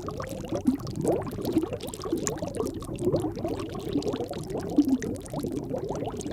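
Underwater bubbling: a dense, steady stream of small bubbles, heard as many short rising blips.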